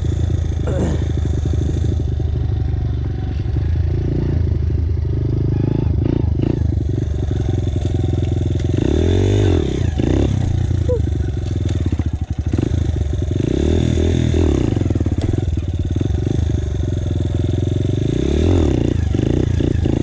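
Dirt bike engine running while riding, its pitch rising and falling several times as the throttle is opened and closed through the gears.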